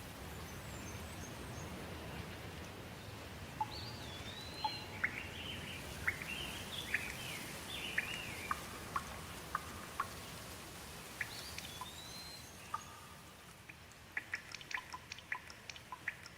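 Steady rain with birds chirping through the middle, repeated short curved calls. Near the end the rain thins and quick drops drip and tick.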